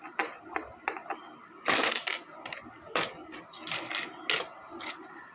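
Small construction-kit strips and parts clinking and clattering as they are handled, a run of sharp scattered clicks with a louder clatter about two seconds in.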